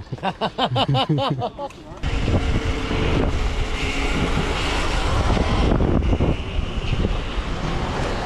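Wind rushing over the microphone of a moving e-bike, loud and steady from about two seconds in. Before that comes a short warbling, pitched sound that pulses about four times a second.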